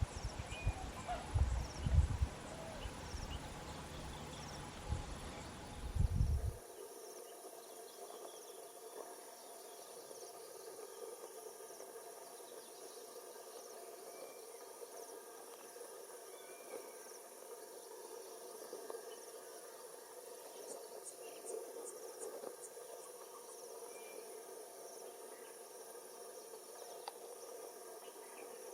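Steady chorus of insects, crickets chirring continuously. For the first six seconds or so there are irregular low gusts, like wind buffeting the microphone; these stop abruptly.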